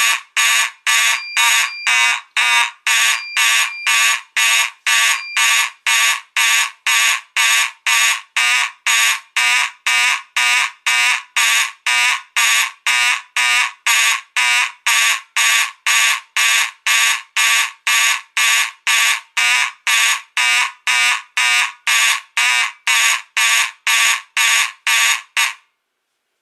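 Simplex 2901-9838 fire alarm horn sounding in march-time code, about two blasts a second. Its pitch wavers, which the owner puts down to the panel's sync signal and to the horn not liking the panel's full-wave rectified power. It cuts off suddenly near the end.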